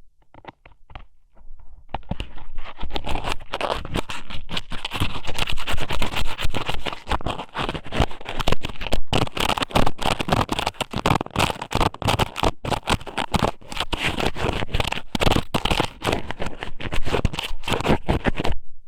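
Raw squid noodle strips (ika somen) pushed and rubbed inside a microphone's ear, close-up ASMR scratching and scraping. A few scattered clicks come first; dense, continuous rubbing begins about two seconds in and stops just before the end.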